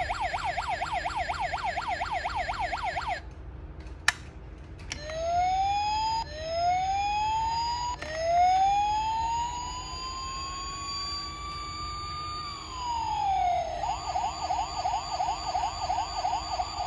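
Electronic police siren from a toy car's sound chip, cycling through patterns: a fast warbling yelp, then a click about four seconds in, then rising wail sweeps that lengthen into one long slow rise and fall, and a fast yelp again near the end.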